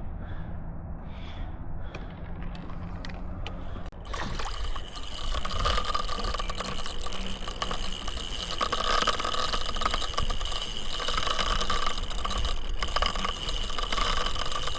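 Fishing reel's drag letting out line under a hooked sturgeon: after a low rumble, a sudden, loud, steady buzzing starts about four seconds in and keeps going.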